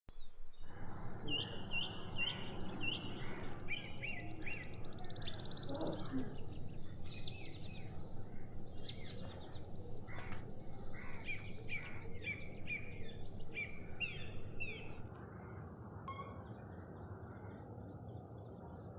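A flock of parrots calling from a tree: many short, overlapping chirps and buzzy chatter over a steady low background rumble. The calls stop about fifteen seconds in, leaving only the rumble.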